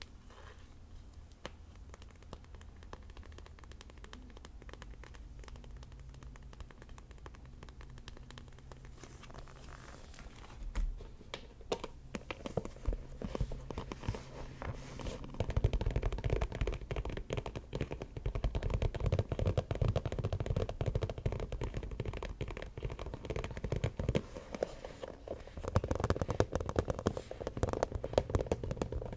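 Hands tapping and scratching on an object: sparse, faint taps for about the first ten seconds, then dense, rapid tapping and scratching that gets louder about halfway through.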